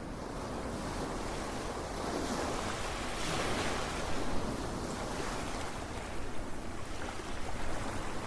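Ocean surf: a continuous wash of waves that swells to its loudest about three to four seconds in, then eases back to a softer, uneven rush.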